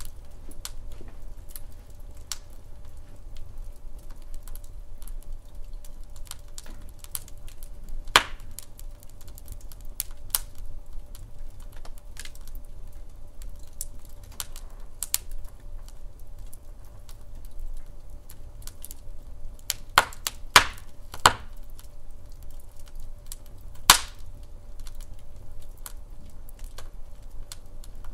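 Wood fire burning in a fireplace: a steady low rumble with scattered crackles and sharp pops of the burning logs, the loudest a single pop about eight seconds in, three close together around twenty seconds, and another about twenty-four seconds in.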